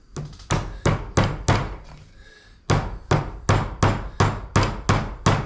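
A hammer driving small nails into a wooden beehive frame. There are about five quick strikes, a pause of about a second, then a steadier run of about nine strikes at roughly three a second.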